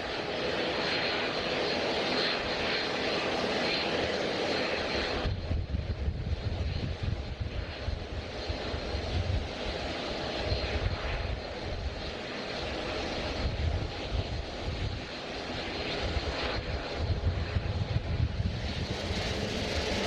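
Jet airliner engine noise: a steady whine with a high tone at first, then, after an abrupt change about five seconds in, a lower, fluctuating rumble.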